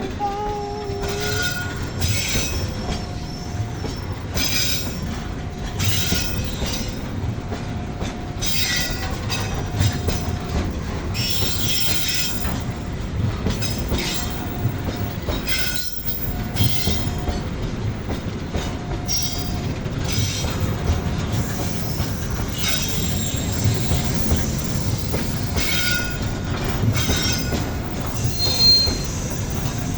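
Pertamina fuel train of tank wagons rolling past. The wheels clack over the rail joints in a steady rhythm, about once every second or so, with short wheel squeals over a continuous rumble.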